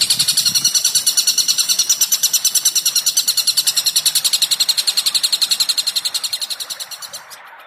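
Recorded bird call: a fast, even trill of high notes, about ten a second, that fades and then cuts off shortly before the end.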